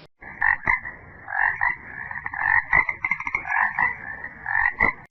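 An animal's repeated short, rasping calls, about two to three a second.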